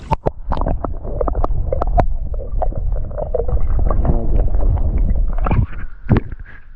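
Water sloshing and gurgling close to the microphone, with a low rumble and a run of irregular knocks and clicks; it fades near the end.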